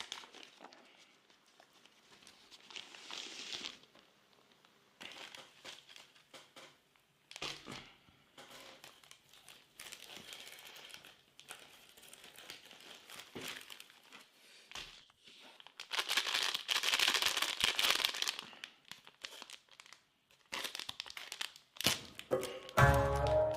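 Plastic and foil ration food pouches crinkling and being torn open in bursts, the longest and loudest stretch a little past halfway. Music comes in near the end.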